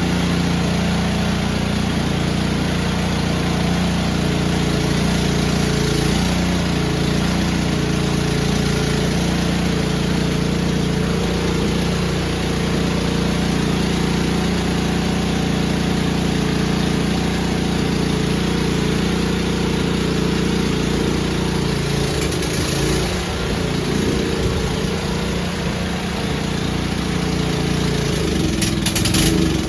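Powermate 208cc overhead-valve single-cylinder snowblower engine running at a steady speed, turning uneven about two-thirds of the way through.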